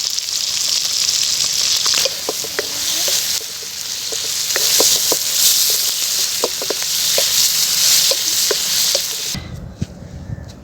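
Beef liver frying: a loud, steady sizzle with scattered short pops and crackles of spattering fat. The sizzle cuts off abruptly near the end, leaving a much quieter, low background.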